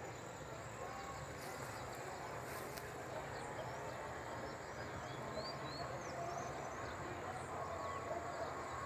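Outdoor ambience: a steady low background noise with faint, scattered bird chirps throughout.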